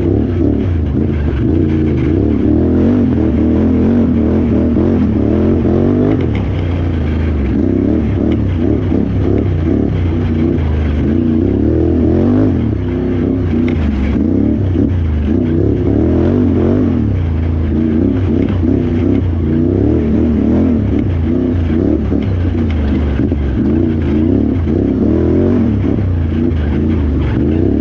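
Can-Am Renegade XXC 1000R ATV's V-twin engine running hard, its revs rising and falling constantly with the throttle.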